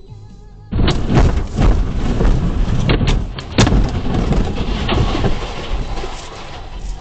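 Loud rumbling vehicle noise picked up by a dash cam's microphone. It starts suddenly about a second in, carries repeated knocks and thuds, and fades near the end.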